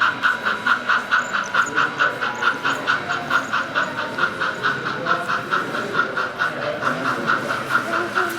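Sound-equipped On30 model steam locomotive chuffing steadily, about four chuffs a second, with a murmur of voices in the hall behind.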